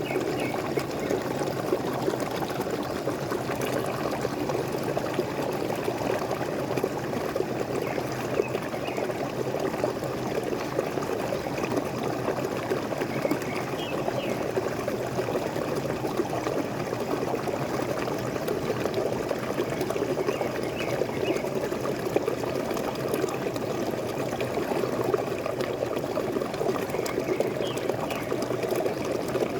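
Waterfall splashing steadily, with faint bird chirps now and then.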